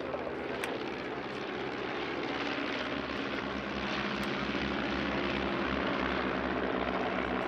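Stampe SV.4 biplanes' piston engines and propellers running in formation, a steady drone that grows slowly louder as the aircraft approach.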